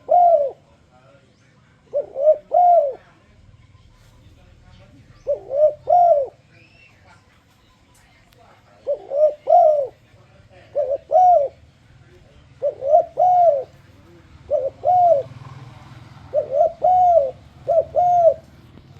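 Spotted dove (tekukur) cooing: short groups of two or three rounded, arched coo notes, repeated every one to three seconds, used as a luring call for other doves.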